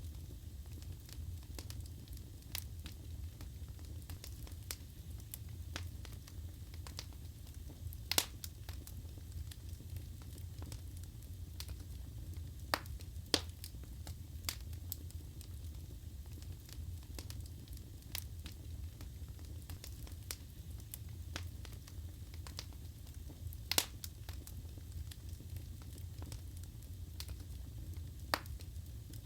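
Wood fire burning in a fireplace: a steady low rumble of the flames with scattered sharp crackles and pops from the burning logs, a few louder pops standing out.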